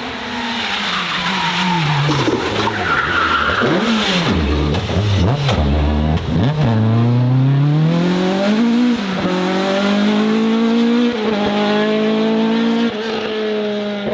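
Race car braking hard with tyres squealing, its engine revs falling low and unsettled, then accelerating away, the revs climbing again and again through several upshifts.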